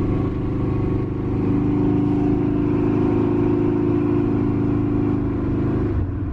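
Carbureted V8 pickup truck engine running under load as the truck drives, a steady droning exhaust note that drops off near the end.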